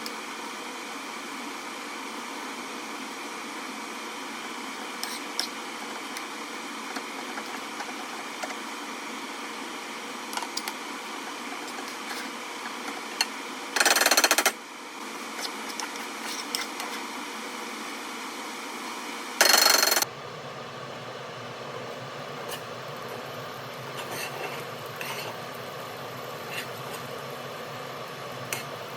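Avocado oil sizzling steadily in a pan with scattered small pops as pre-cooked chicken skin fries. Two loud, brief bursts of noise stand out, about 14 and 19 seconds in, after which the sizzle sounds duller.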